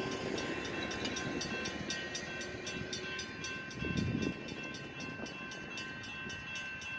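CSX freight train rolling past, with steady high-pitched ringing tones and fast rhythmic ticking over it, and a brief low thump about four seconds in.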